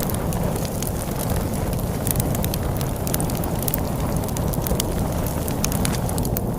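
Log fire crackling with frequent sharp pops and snaps over a steady low rumble of storm wind.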